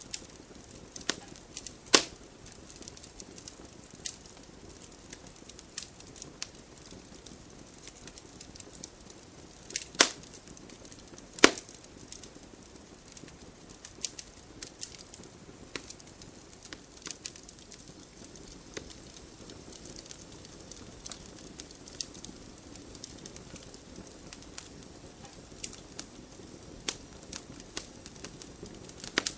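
Wood fire crackling in a fireplace: a soft steady hiss with frequent small snaps and a few louder pops, about two seconds in and twice around ten to twelve seconds in.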